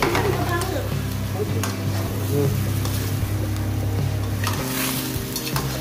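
Chicken livers and garlic sizzling in a frying pan, turned with a slotted spatula, with a few sharp scrapes and clicks of the spatula on the pan. Background music with held low notes plays underneath.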